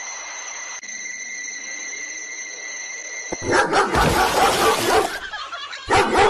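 A steady high-pitched tone for about three and a half seconds, then a dog barking loudly, with one more short loud bark near the end.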